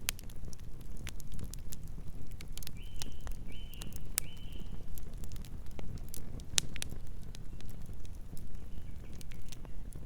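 Wood campfire crackling, with frequent sharp pops and snaps of varying loudness over a low steady rumble of burning. Three short high chirps sound in quick succession about three seconds in, with a fainter pair near the end.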